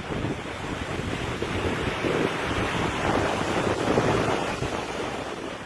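Steady rushing noise of moving water, with wind buffeting the microphone, growing a little louder toward the middle.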